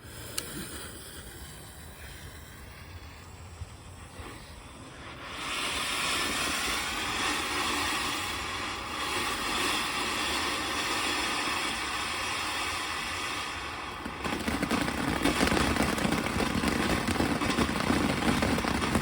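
A TNT Freedom 76 ground fountain firework going off. After a few quiet seconds it catches about five seconds in with a steady hissing spray, which grows louder and heavier about fourteen seconds in.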